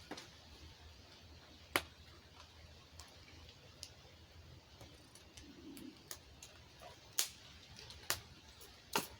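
Scattered sharp clicks and taps over a faint steady background, with the loudest four coming about two, seven, eight and nine seconds in.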